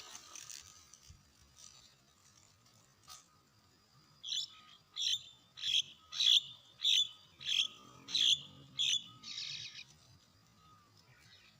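Starling calling a rapid series of about eight short, sharp notes a little over half a second apart, followed by one harsher, rasping call.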